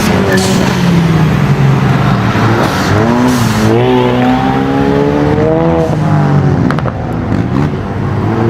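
High-performance sports car engine accelerating hard: its pitch climbs steadily for about three seconds, then breaks off about six seconds in as the driver shifts or lifts off. The exhaust note then drops lower.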